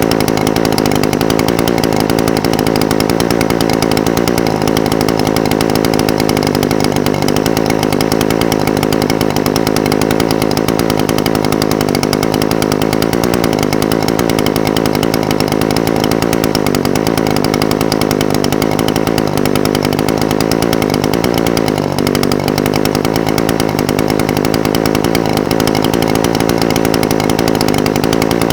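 Echo SRM-420TES brush cutter's small two-stroke engine idling steadily, its note wavering slightly in pitch.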